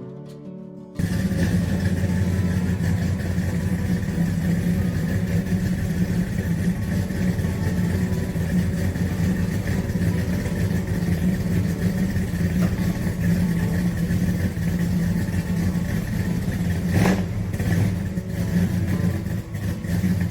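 Muscle car engine running steadily, coming in abruptly about a second in, with a brief louder moment late on.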